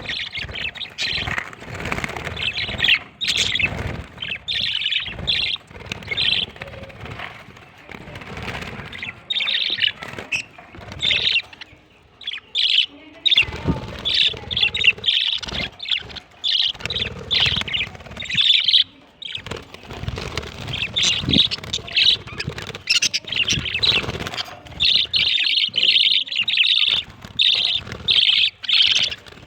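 Budgerigars chirping and chattering in quick, broken bursts of high twittering, with short pauses between clusters and some low rustling underneath.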